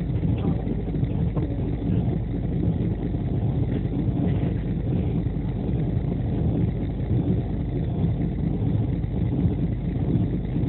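Steady low rumble of an express train running at speed, heard from inside the passenger coach: wheels on the rails and the coach's running noise, even throughout.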